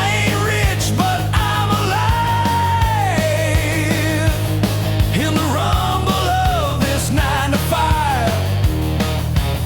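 Rock music with drums, bass and a loud melodic lead that holds long notes and slides between them, with a steady beat.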